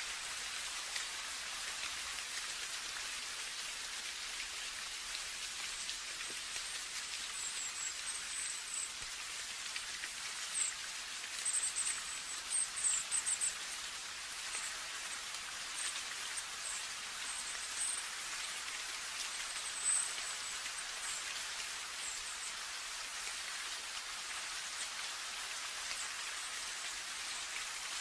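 Steady rain falling, an even hiss of many drops, with a scatter of short high-pitched chirps through the middle stretch.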